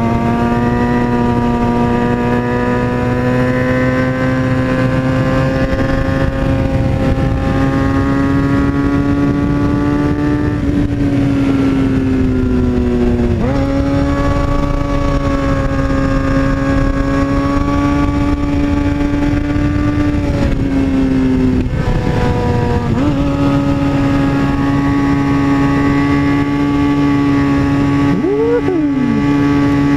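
2003 Kawasaki ZX-6R 636 inline-four engine running at high revs under way, its pitch slowly climbing; twice the revs fall away and then pick back up.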